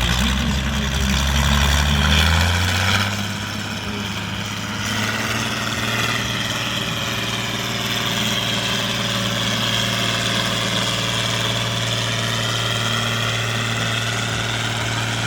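Six-cylinder ZT tractor diesel engine working hard under load, its pitch rising for about three seconds. The throttle then comes off and it settles into a steady lower-load run.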